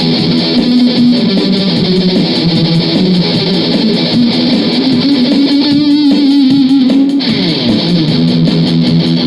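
Electric guitar playing riffs and licks. About six seconds in comes a long held note with wavering vibrato, followed by a falling run of notes.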